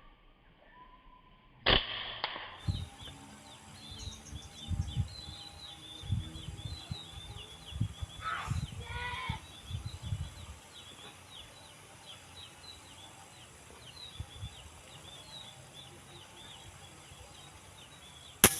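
A sharp shot crack about two seconds in and another near the end, with a flock of small birds chirping rapidly and high in between.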